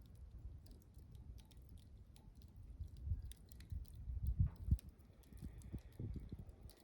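Wood campfire burning: scattered sharp crackles and pops over a low, uneven rumble that grows stronger about four seconds in.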